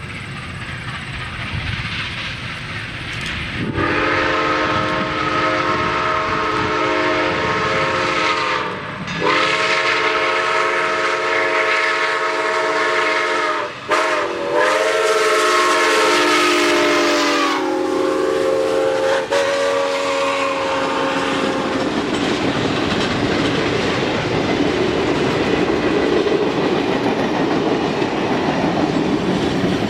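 A 2-10-2 steam locomotive's chime whistle sounds several long blasts with short breaks; the pitch sags and bends near the end as the steam falls off. Then comes the steady rush and rumble of the train rolling by.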